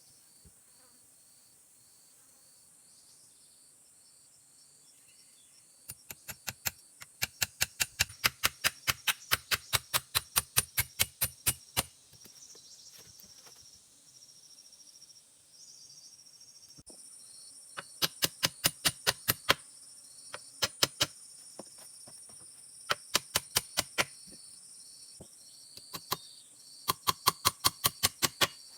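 Insects chirring steadily in the background, overlaid by bursts of rapid, sharp knocks at about four a second, several runs of a few seconds each, the loudest sound.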